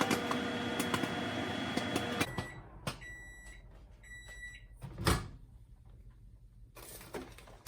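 Background music that cuts off after about two seconds, then an LG microwave oven beeping several times at one high pitch, followed about five seconds in by a single sharp clack of its door being opened.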